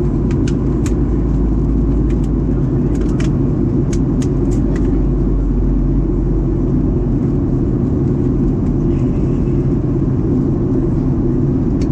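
Steady, loud cabin rumble of a Boeing 737-800 airliner descending towards landing: engine and airflow noise heard from inside the cabin. A few faint short clicks come through in the first five seconds.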